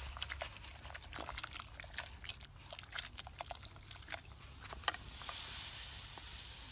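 Wood campfire crackling with scattered small snaps and pops, then a steady hiss over the last second and a half.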